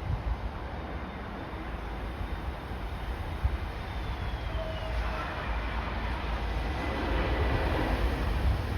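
Landing jet airliner approaching, its engine whine sliding down in pitch and growing louder, over gusting wind buffeting the microphone.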